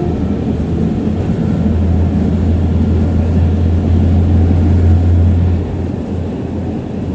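Tram running past on street track: a loud low rumble that swells and then drops off sharply near the end.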